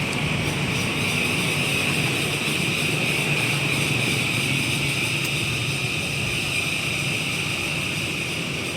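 Chorus of cicadas: a steady, shrill, high buzz that does not let up, over a low steady hum.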